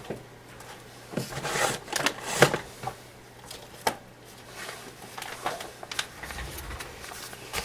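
Envelopes and mailers being rummaged through by hand: irregular rustling with scattered light clicks and taps.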